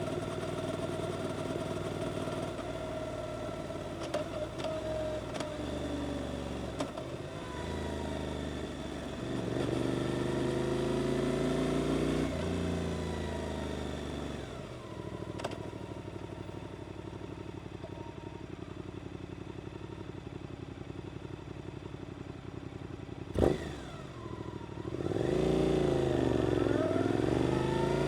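Suzuki GSX-8S parallel-twin engine through an Arrows aftermarket exhaust, on the move: the revs climb and drop away, then it runs low and steady for a while. A single sharp knock comes shortly before the engine pulls hard near the end, its revs rising.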